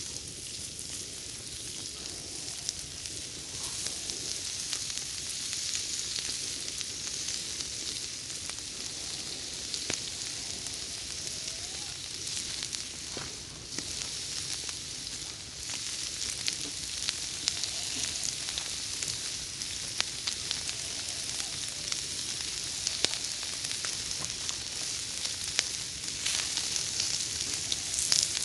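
Pork sizzling as it grills on fire-heated gravel: a steady hiss scattered with many small pops and crackles.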